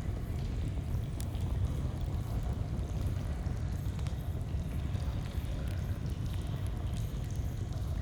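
Steady low rush of flowing stream water, with small scattered crackles and pops of a campfire over it.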